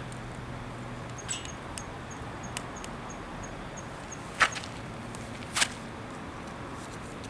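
Two quick, sharp scrapes a little over a second apart, over a faint, regular high ticking and a few small clicks.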